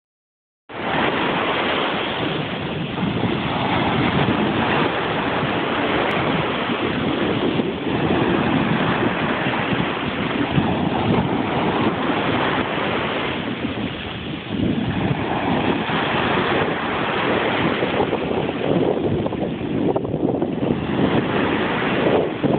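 Sea waves washing and surging continuously, with wind noise on the microphone.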